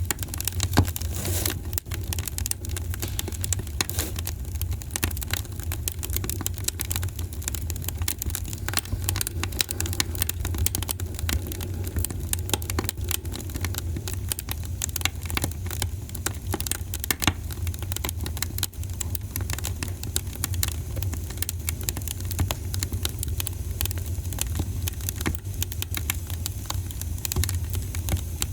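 Wood fire crackling in a fireplace: dense, irregular crackles and pops over a steady low rumble.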